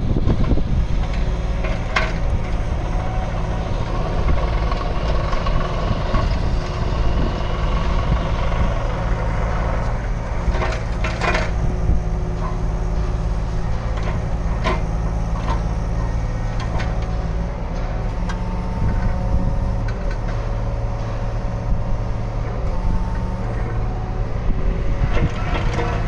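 Yanmar VIO33-6A mini excavator's diesel engine running steadily, with higher tones wavering above it and a few sharp metallic knocks scattered through.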